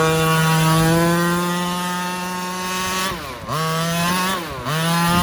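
Small 30 cc two-stroke gas engine of a Redcat XR rally RC car, with a restrictive exhaust pipe, running at high revs. It holds steady for about three seconds, then drops off the throttle twice in quick succession and revs back up each time.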